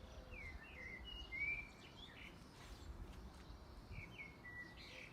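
Songbird singing: a quick run of chirps and whistles about half a second in, and another phrase near the end, over a faint low background rumble.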